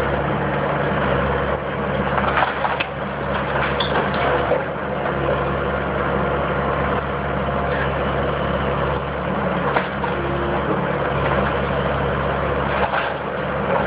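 Heavy demolition machine's diesel engine running steadily, with scattered cracks and knocks of a house's walls being broken apart.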